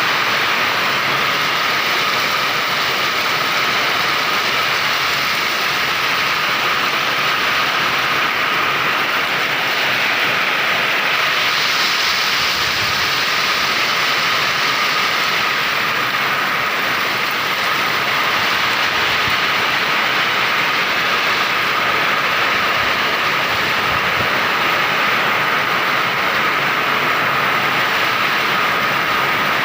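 Heavy rain pouring down in strong wind: a loud, steady hiss that swells briefly about twelve seconds in, with a thin steady tone running underneath.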